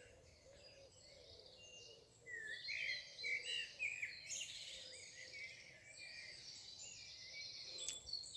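Small songbirds singing over one another in a faint outdoor chorus of chirps and warbles, growing busier about two seconds in. A single faint click near the end.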